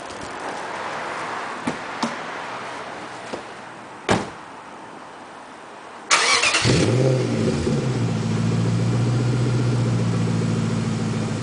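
A few light clicks and a thump, then about six seconds in a car engine cranks briefly, catches, and settles into a steady idle through its exhaust.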